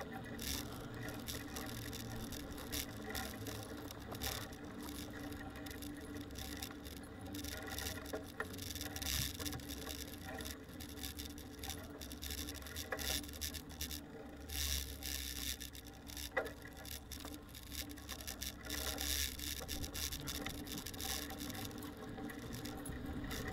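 Old bicycle being ridden, heard from a camera mounted on it: steady rubbing and scraping from the chain and drivetrain, with frequent light rattling clicks over a low rumble.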